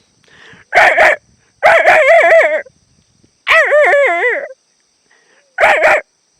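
A dog giving four short, drawn-out calls, each with a pitch that wavers up and down, separated by short pauses.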